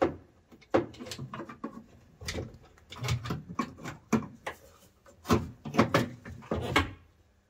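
Irregular clunks and clicks, about a dozen sharp knocks with short gaps between them, from hands working on parts of a BMW E30 car body.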